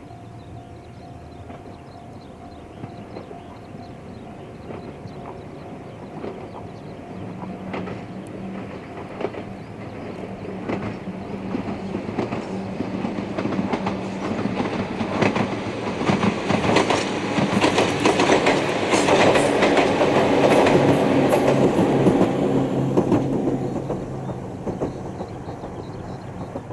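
Ohmi Railway electric train approaching and passing, its wheels clicking over rail joints above a low motor hum. It grows steadily louder to a peak about three-quarters of the way through, then fades away near the end.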